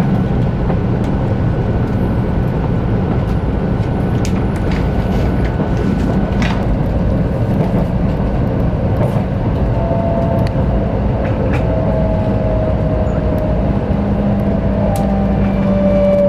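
Running noise of a 500 series Shinkansen train at speed: a steady low rumble. About two-thirds of the way through, faint whining tones come in and slowly drop in pitch, and a stronger low hum joins near the end.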